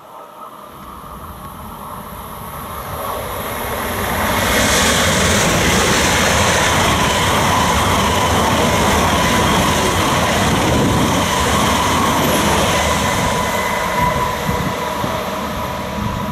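ICE high-speed electric train passing through a station at speed: a rushing noise of wheels on rails and air builds over about four seconds, holds loud for about ten seconds as the coaches go by, then begins to fade near the end. A steady whine runs through the pass-by.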